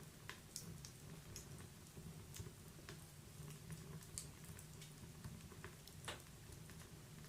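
Wood fire crackling softly in a fireplace: irregular small pops and snaps, a sharper one about six seconds in, over a low steady rumble.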